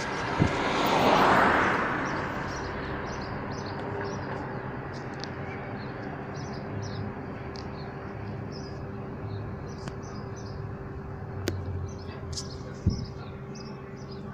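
Small birds chirping again and again over a steady low hum, with a broad swell of rushing noise about a second in, and a couple of sharp clicks near the end.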